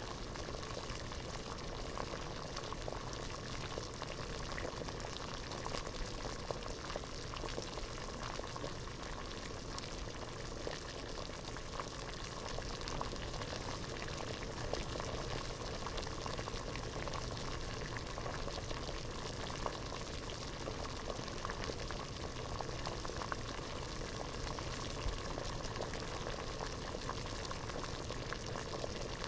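Water at a rolling boil in a pot, bubbling steadily with a constant stream of small pops and bursts.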